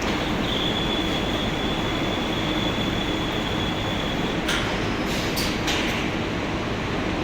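Glass screen-printing line machinery running with a steady mechanical rumble. A thin high whine holds from about half a second in to about four and a half seconds, and a few short hissing bursts follow in the second half.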